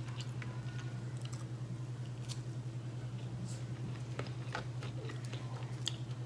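Close-up chewing of chicken, with scattered small mouth clicks and bites, over a steady low hum.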